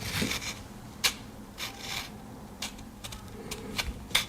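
Pocket knife blade drawn through the ceramic discs of a handheld sharpener: two short scraping strokes, with a few sharp clicks of metal on the sharpener.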